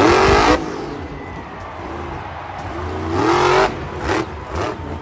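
A car engine revving twice: it rises in pitch near the start and again about three seconds in, with a steady rumble between and a few short clicks near the end.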